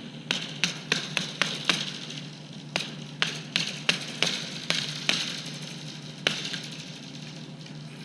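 Hammer striking repeatedly while fixing a fence. The blows come two to three a second, pause briefly about two seconds in, and stop about six seconds in, over a steady low hum.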